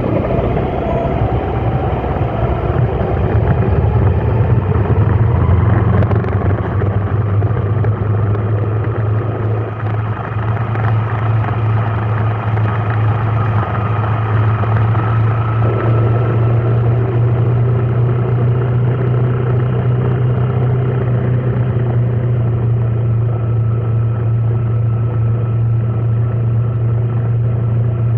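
Vehicle engine running steadily, with a whine that rises over the first several seconds as it speeds up, then holds steady.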